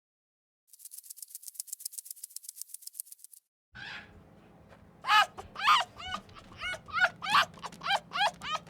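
A fast, dry rattling of high clicks for a few seconds, then, after a break, an animal's loud, short, high calls repeated about twice a second over a low steady hum.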